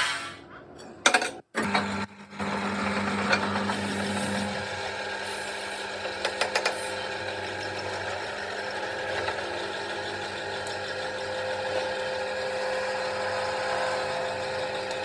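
A motor running steadily with a constant hum, after a few abrupt starts and stops in the first two seconds; a short cluster of clicks comes about six and a half seconds in.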